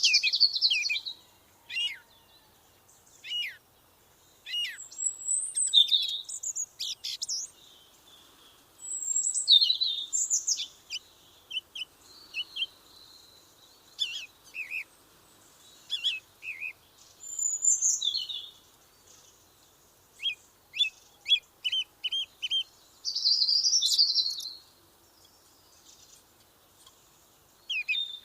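A songbird singing in short, varied phrases of high chirps, whistles and trills, each a second or two long, with brief pauses between them.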